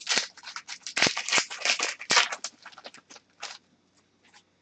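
Trading card packaging and cards being handled: a quick run of short crinkly rustles and slides that stops about three and a half seconds in.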